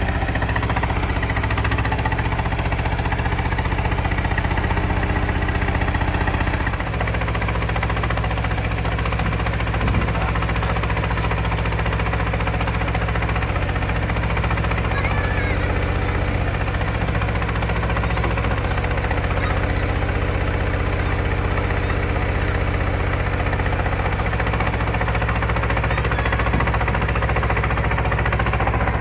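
Detroit Diesel 6V92TA two-stroke V6 turbo diesel of an FTF truck running at a steady speed, with a brief dip in level about seven seconds in.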